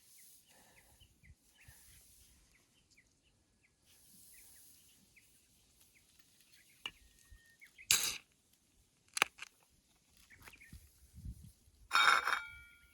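Wild birds calling in mountain terrain: many short scattered chirps, with a few louder sharp sounds about eight, nine and twelve seconds in.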